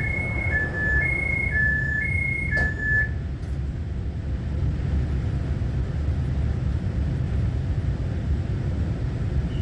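Door-closing warning on a Taiwan Railway EMU900 commuter train: electronic beeps alternating between two pitches, about six tones, stopping about three seconds in, with a knock near their end. Under it, the train cabin's steady low rumble.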